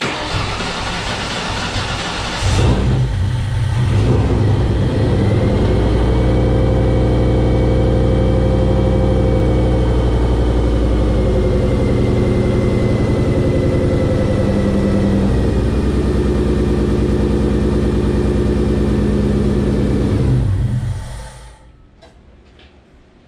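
A supercharged 4.6 L DOHC V8 with a Whipple 2.3 L twin-screw supercharger on E85, started for the first time. The starter cranks for about two and a half seconds, then the engine catches with a short flare of revs and settles into a steady idle with a thin high whine over it for a while. It shuts off about 21 seconds in.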